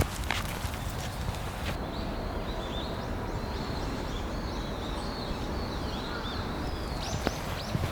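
Footsteps of a person walking outdoors: a step or two at the start, then a pause of about five seconds filled with small birds chirping over a steady low rush, and the steps start again near the end.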